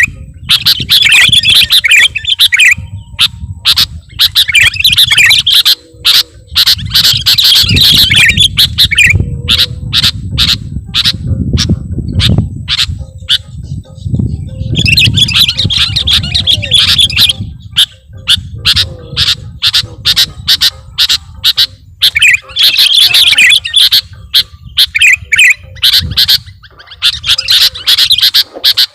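Sooty-headed bulbul (kutilang) calling in repeated bursts of bright, chattering chirps a second or two long with short gaps between them, played loud and crackly as a trapping lure call.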